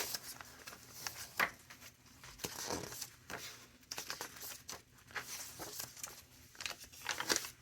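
Pages of a chunky handmade junk journal being turned and handled, the paper rustling and crinkling in soft, irregular bursts.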